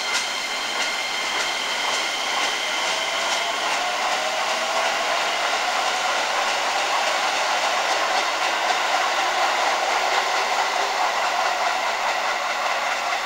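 Musashino Line 205-series electric train pulling out of the platform and accelerating away. Its running noise carries steady tones and a motor whine that rises slowly in pitch, with a few clicks in the first seconds.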